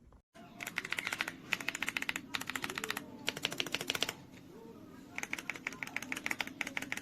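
Typing on an AULA F75 mechanical keyboard with pre-lubed Reaper switches: fast runs of key clicks in bursts of about a second, pausing briefly about four seconds in, then resuming.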